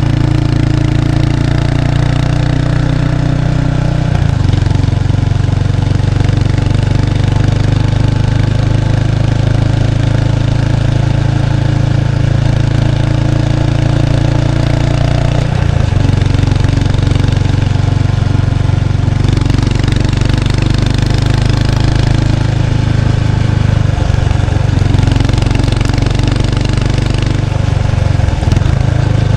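Exhaust note of a 1993 Kawasaki Estrella's 250 cc single-cylinder engine through its stock muffler, heard close at the rear of the bike while it is ridden. The engine note steps to a new pitch about four seconds in, again about halfway through, and once more near the end.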